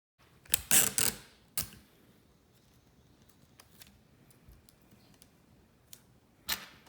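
Small handling noises on a desk: a quick cluster of sharp rustling clicks about half a second in, another a moment later, faint scattered ticks, and one more click near the end.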